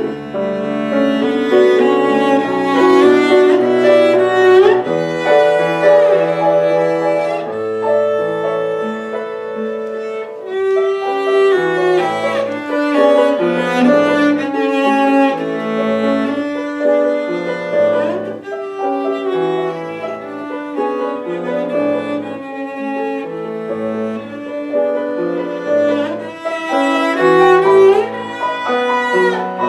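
Cello playing a slow, lyrical melody with piano accompaniment, the piano sounding low notes and chords in a steady pulse beneath it.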